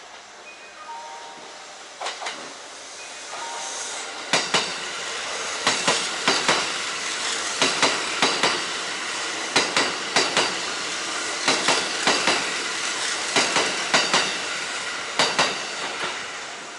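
A Kintetsu electric train passing, its wheels clicking over the rail joints in quick pairs, bogie after bogie, over a steady rush of running noise. The sound builds up about four seconds in and begins to fade near the end.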